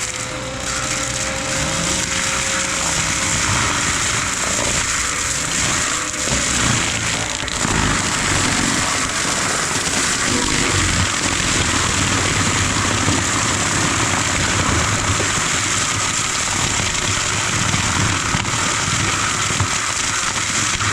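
Heavy diesel forestry equipment running steadily under load, its engine note shifting a little over a wide, even rush of noise.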